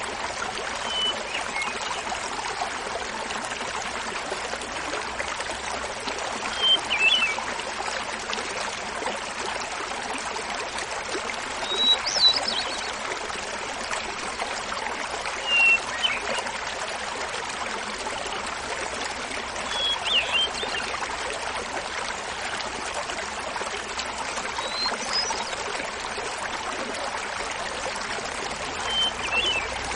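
Small mountain waterfall babbling steadily, with a hermit thrush singing short flute-like phrases every four to five seconds, each phrase at a different pitch.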